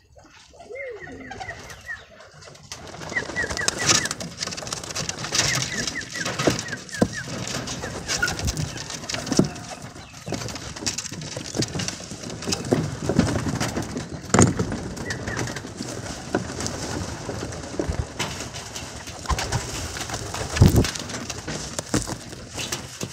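Young racing pigeons cooing at the loft, amid frequent short knocks and flutters as birds land and drop into the trap.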